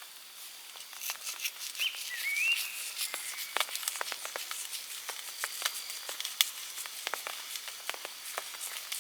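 Bonfire crackling with many sharp pops and snaps over a light hiss. A short whistle rises and bends near two seconds in.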